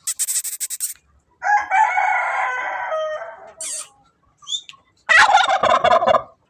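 Domestic fowl calling. A burst of rapid clicks comes at the start, then one long drawn-out call of about a second and a half, then a rapid rattling call near the end.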